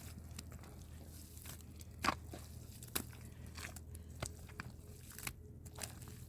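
Scattered crunching and clicking handling noises, with two sharper knocks about two and three seconds in, over a steady low hum.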